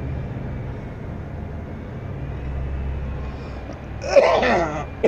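Van engine running with the throttle held slightly open, a low steady drone that swells a little about two seconds in; the extra revs raise the alternator's output enough to carry the inverter powering a 1500 W space heater. About four seconds in a man lets out a loud cough.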